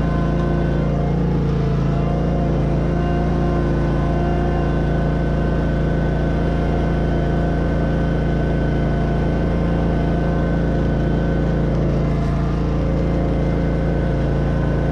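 Bob-Cat riding mower's engine running at a steady speed.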